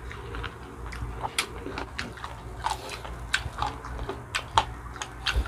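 Chewing and biting on spicy adobo chicken feet, with irregular sharp wet mouth clicks.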